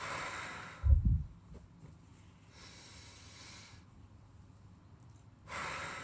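A person taking deep, audible breaths: a breath hisses, then a hard blow buffets the microphone about a second in, a quieter breath follows in the middle, and another breath starts near the end.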